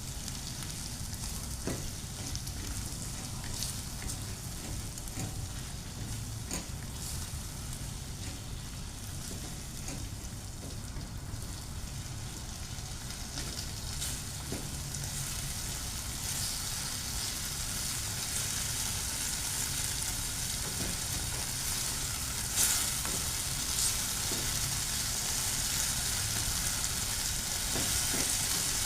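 Food sizzling as it fries in a pan, with a few light clicks of stirring. The sizzle grows a little louder in the second half.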